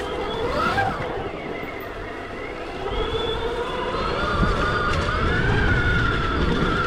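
Stark Varg EX electric dirt bike's motor whining, its pitch rising and falling with the throttle, over a low rumble.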